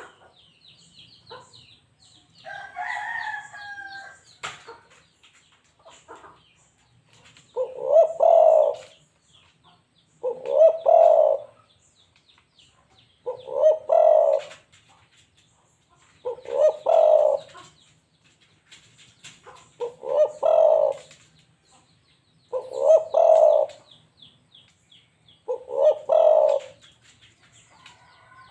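Local balam dove cooing: seven coo phrases repeated about every three seconds. A different bird call rises and falls about three seconds in, with faint high chirps from small birds in the background.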